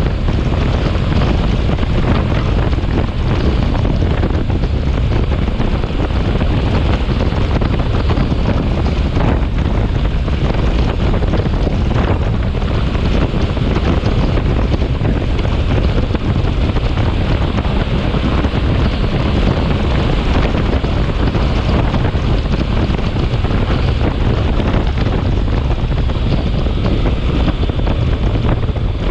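Storm wind blowing hard across the microphone: loud, steady wind noise that is heaviest in the low rumble and never lets up.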